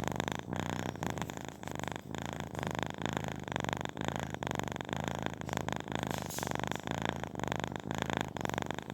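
Kitten purring steadily while dozing, the purr swelling and dipping in a regular rhythm.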